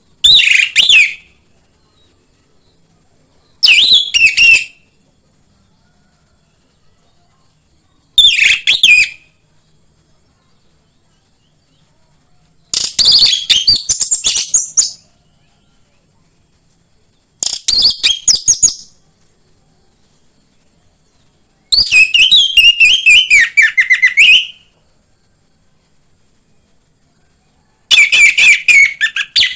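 Orange-headed thrush singing: seven loud bursts of rapid, varied notes, each one to three seconds long and a few seconds apart, over a steady high hiss.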